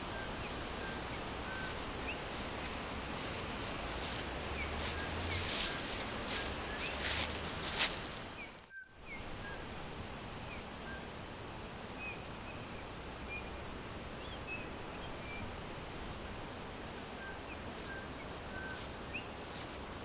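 Forest ambience: small birds chirping in short, high, scattered notes over a steady rustle of leaves and wind. A stretch of louder rustling and crackling in the middle ends in a sharp snap, and the sound cuts out for a moment just after.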